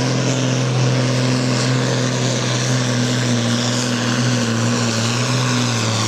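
Turbocharged diesel engine of a sport-class pulling tractor running flat out under full load, holding a steady high pitch.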